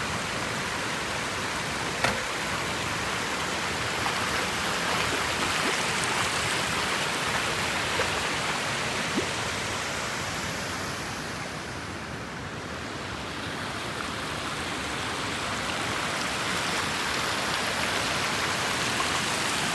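Water rushing steadily, with a few faint small knocks; the rush softens briefly a little past halfway, then picks up again.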